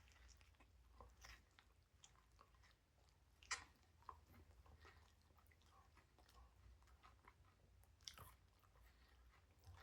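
Faint chewing of a mouthful of sandwich: soft, scattered mouth clicks and small crunches, the most distinct about three and a half and eight seconds in.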